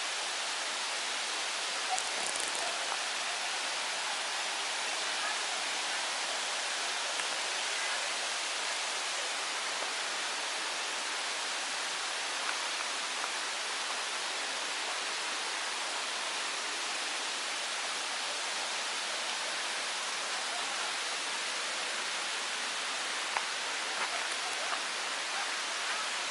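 Waterfalls on a river, a steady rushing of falling water with no pitch to it, with a few faint ticks here and there.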